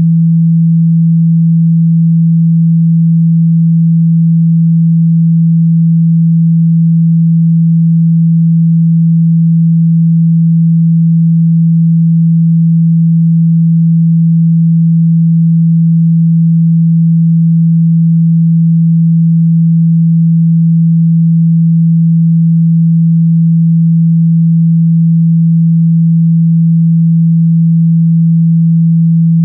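Steady pure 165 Hz sine tone, loud and unchanging, of the kind played through a phone or speaker to shake out water and dust.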